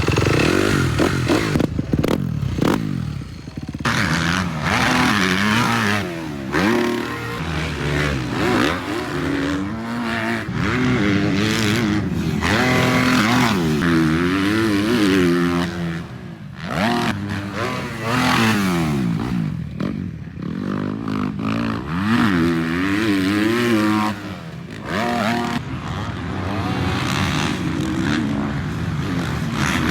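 Dirt bike engine being ridden hard, its pitch climbing and dropping sharply again and again as it revs through the gears and backs off.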